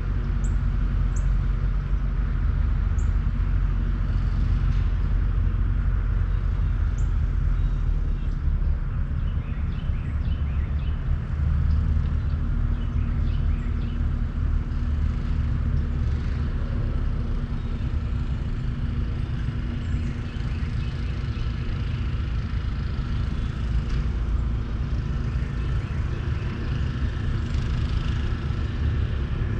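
Outdoor ambience with a steady low rumble, like distant traffic or machinery, and faint bird chirps now and then. No club or ball strikes stand out.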